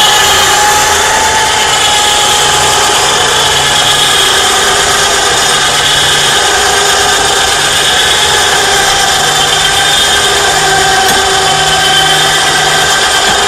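Battery-powered 12-volt ATV winch running steadily under load as it reels in its cable, pulling a truck up a steep incline: a loud, continuous motor-and-gear whine.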